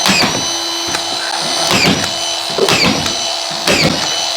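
Drywall screw gun running with a steady high whine, broken by sharp clicks about once a second as screws are driven into the ceiling sheet.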